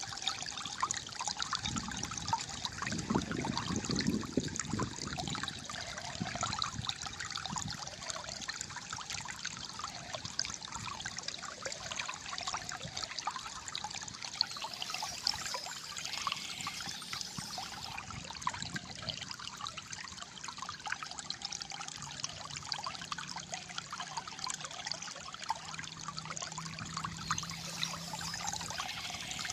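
Calm flowing water gurgling and trickling steadily, with a fuller, deeper gurgle for a few seconds near the start.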